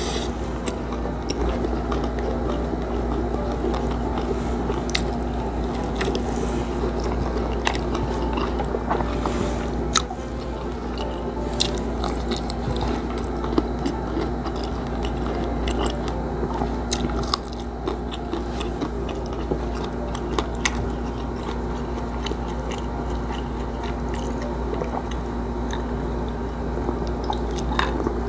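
Close-miked chewing and crunching of a mouthful of crispy fried milkfish (bangus) belly, rice and vegetables, with scattered sharp crunchy clicks, over a steady low hum.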